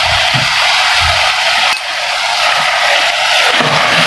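Minced beef frying in hot oil in a metal pot, a steady loud sizzle, with a spoon stirring through it. Yogurt has just gone into the mince at the bhuna stage, after the oil has separated.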